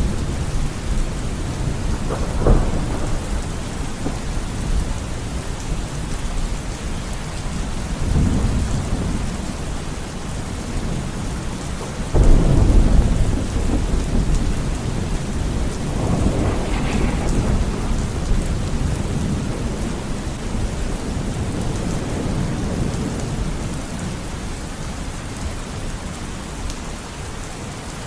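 Steady rain with thunder rumbling several times. The loudest thunderclap breaks suddenly about twelve seconds in and rolls off over a few seconds.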